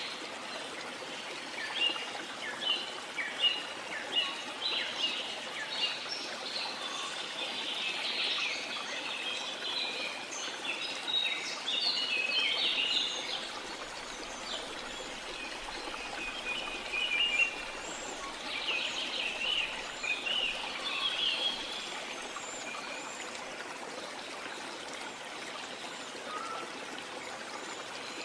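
Rainforest ambience of steadily running water, with many birds chirping over it. The birdsong is busiest through the first half and again about 18 to 21 seconds in.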